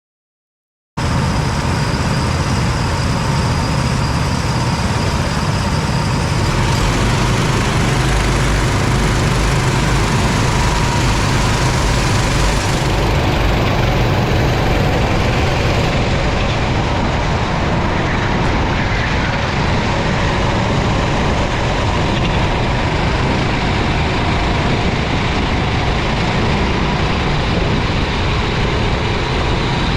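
Racing kart engine running, heard through an onboard camera, under a steady rush of noise; the sound cuts in suddenly about a second in and stays even throughout.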